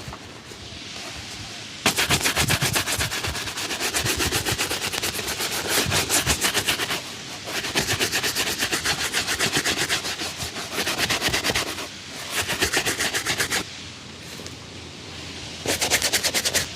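Fast back-and-forth strokes of a shoe brush rubbing over shoe leather, several strokes a second. The strokes come in runs of a few seconds with brief pauses: they start about two seconds in, stop for a couple of seconds near the end, then pick up again.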